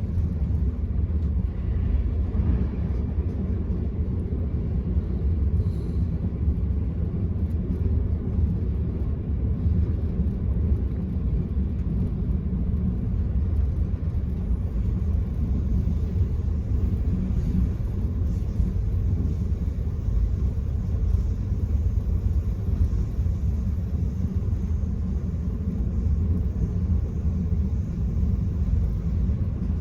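Steady low rumble of an Enterprise intercity train running along the line, heard from inside a passenger coach.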